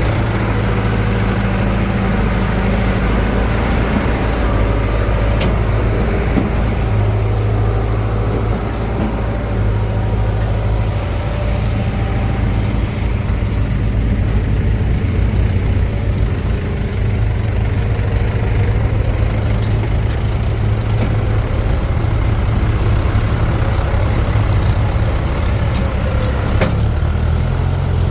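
Heavy diesel machinery engine running steadily at a constant pace.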